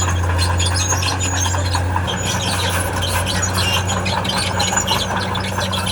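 Diesel engine of a tracked earthmoving machine running steadily, its note dropping slightly about two seconds in, with rapid high-pitched squeals and scraping from metal crawler tracks and undercarriage.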